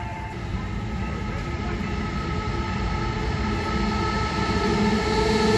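A Korail locomotive-hauled train approaching a level crossing, its rumble growing steadily louder as it nears. Steady warning tones from the lowered crossing's signal ring over it.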